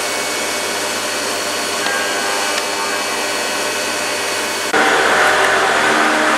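Steady whirring machine noise with a faint hum of several steady tones. About four and a half seconds in it cuts abruptly to a louder, brighter whir.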